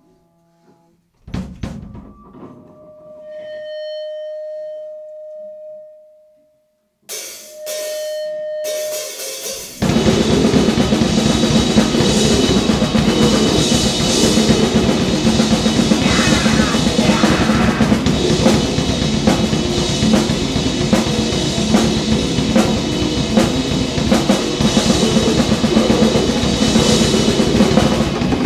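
Grindcore/noise band session: after a hit and a couple of held single tones, the full band starts about ten seconds in with a loud, dense wall of distorted noise over fast drumming.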